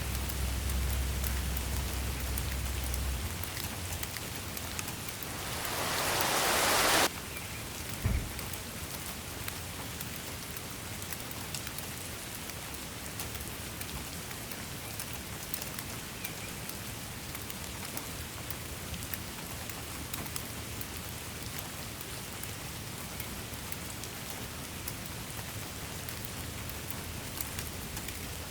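Steady rain falling, an even dense patter. A low rumble for the first three seconds; about five seconds in a rush of noise swells up and cuts off suddenly, followed a second later by a single short low thump.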